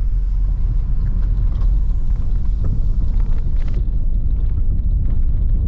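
Car driving on a wet dirt road, heard from inside: a steady low rumble of tyres and engine, with a few faint ticks.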